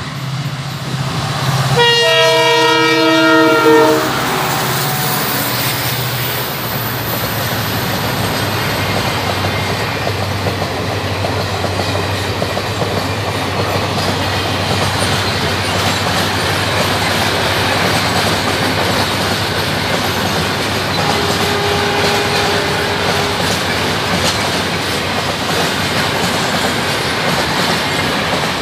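WDG-4D diesel-electric freight locomotive sounding its multi-tone horn for about two seconds as it approaches. A long train of flat wagons then rolls past with a steady rumble of wheels on the rails.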